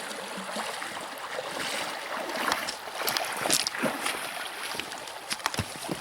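Water splashing and sloshing as a person wades through a cold, deep river, irregular splashes over the steady rush of the flowing water, with a few sharp knocks near the end.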